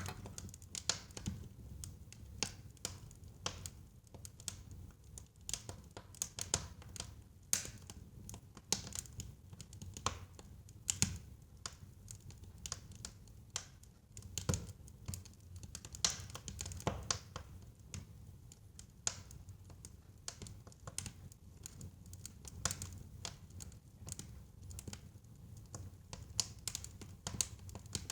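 Wood fire crackling in a fireplace: irregular sharp pops and snaps, several a second and some louder than others, over a low steady rumble of the burning.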